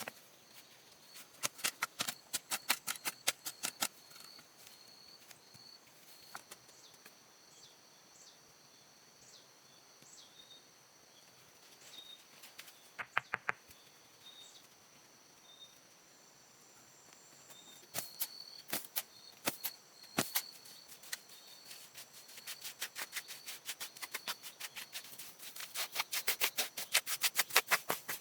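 Runs of quick, sharp taps or clicks, several a second, coming in bursts and growing dense near the end, over a steady high-pitched insect-like buzz with short repeated chirps.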